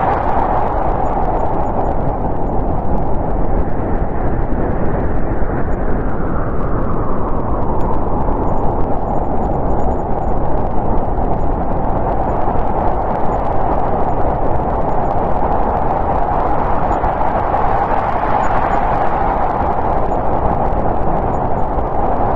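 Snowstorm wind blowing steadily, a whistling noise whose pitch slowly sinks around the middle and rises again near the end.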